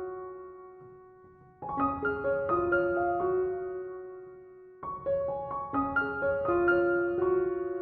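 Background piano music: gentle phrases of single notes that ring and fade, with a new phrase beginning about a second and a half in and another about five seconds in.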